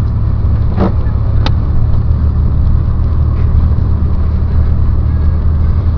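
Steady low drone of a car's engine and road noise heard from inside the cabin while driving, with a short click about a second and a half in.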